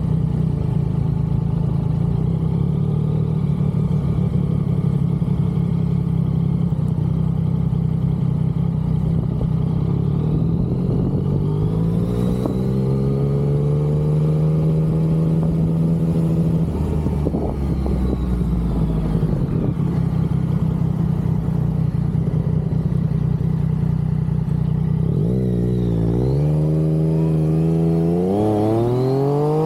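Yamaha XSR900's inline three-cylinder engine under way: a steady cruising note that rises on the throttle, holds, then drops off about halfway through. Near the end it dips briefly and then climbs in two sharp rising sweeps as the bike accelerates hard through a gear change.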